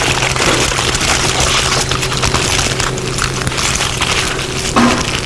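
Aluminium foil crinkling and crackling as it is wrapped and pressed by hand into a mound.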